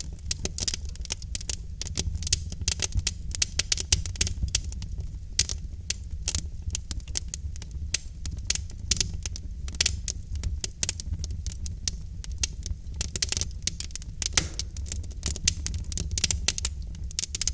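Wood fire crackling: logs burning in a fireplace, with a dense, irregular run of sharp pops and snaps over a steady low rumble of the flames.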